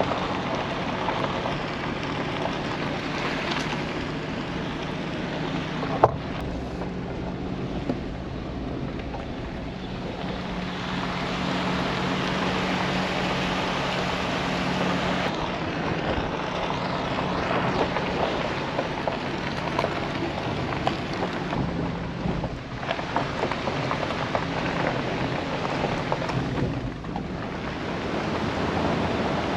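Pickup truck driving slowly on a gravel forest road: a steady engine hum under tyre and road noise, with a sharp knock about six seconds in.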